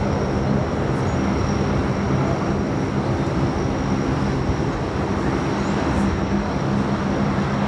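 Aircraft engines running steadily: a dense, even drone with a low hum and a thin, steady high-pitched whine above it.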